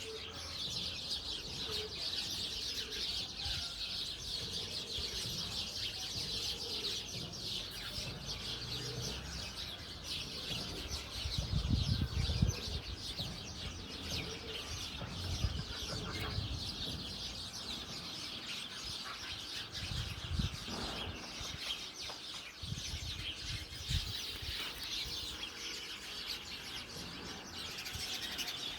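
Many small birds chirping continuously in the background, with a few low thumps and knocks now and then.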